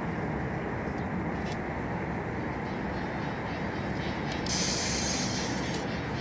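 Hydraulic motorcycle lift on a motorhome lowering after its down button is pressed: a steady mechanical hum, with a hiss that starts about four and a half seconds in and lasts over a second.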